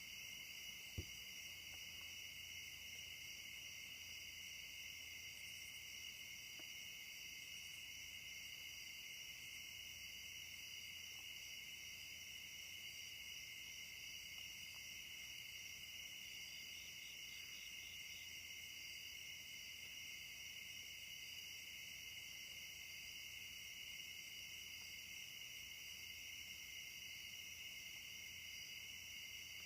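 Nocturnal insect chorus: a steady, unbroken high-pitched trilling in two pitch bands, with a single sharp click about a second in.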